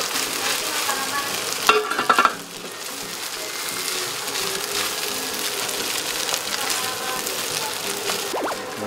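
Egg and cooked rice sizzling steadily in a hot frying pan while a spatula stirs and scrapes through them. Between about one and a half and two and a half seconds in comes a brief run of louder knocks of the spatula against the pan.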